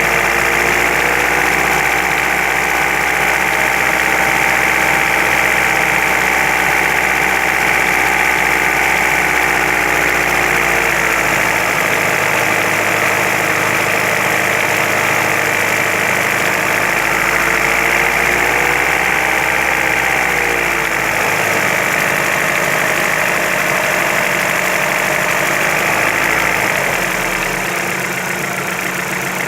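Vehicle engine running near idle, the knocking that the owner is trying to trace. Its revs shift slightly about ten and twenty seconds in.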